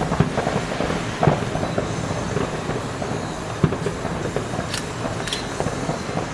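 Fireworks display: a continuous rumble of bursting shells, with several sharper bangs on top, the loudest about a second in.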